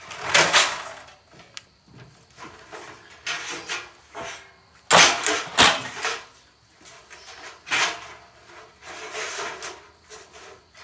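Pieces of paneling and boards being shifted and stacked by hand: scraping and knocking, with two sharp, loud knocks about five seconds in.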